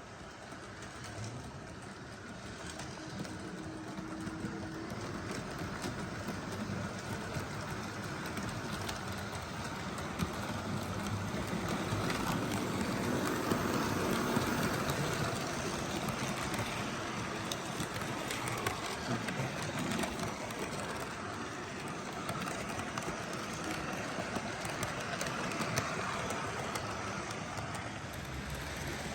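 Model train running along the track, a steady rolling rumble with small clicks from the wheels on the rails, growing louder to a peak about halfway as it passes close and easing off after.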